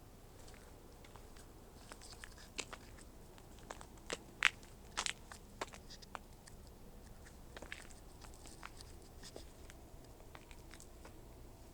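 A series of small, sharp, irregular clicks and crunches against a quiet room, clustering most loudly between about four and five and a half seconds in.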